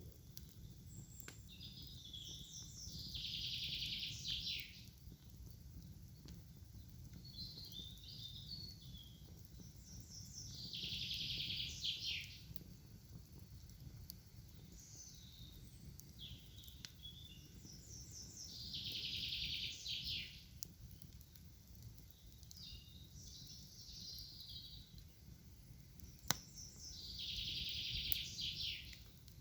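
A songbird singing the same short song four times, about every eight seconds: a few quick notes, then a dense trill that rises in loudness and ends abruptly. A low steady outdoor rumble runs under it, with a few sharp clicks.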